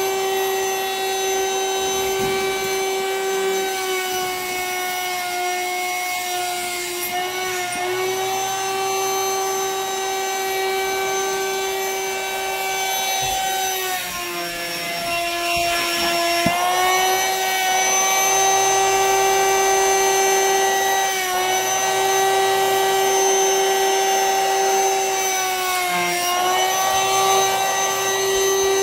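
Vacuum cleaner motor running steadily with a high whine while sucking the air out of a vacuum storage bag of plushies; its pitch sags briefly about four times, most noticeably around the middle, as the suction is choked and then frees up.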